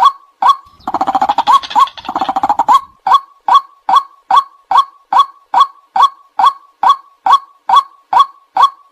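White-breasted waterhen calling: a loud, monotonous 'kwak' repeated evenly about two and a half times a second. About a second in it breaks into a rapid gurgling chatter lasting nearly two seconds, then the steady calls resume.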